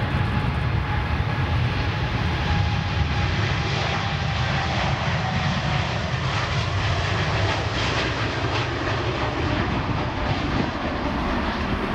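Jet airliner's engines running, a steady loud roar with a faint whine that sinks slightly in pitch.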